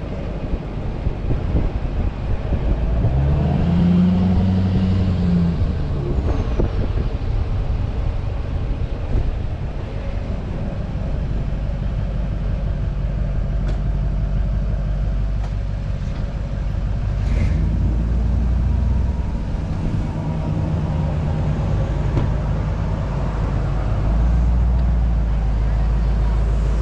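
Steady road and engine noise heard from inside a moving car, with an engine hum that rises and then falls a few seconds in.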